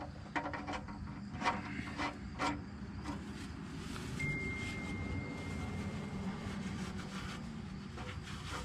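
Faint scattered clicks and light knocks from handling under the truck as the oil-pan drain plug is threaded back in by hand, over a low steady hum. A thin high tone sounds for about two seconds near the middle.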